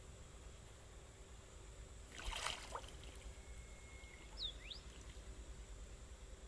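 Quiet outdoor water ambience with a low steady rumble and a brief splash of water a little over two seconds in, followed by two short gliding chirps.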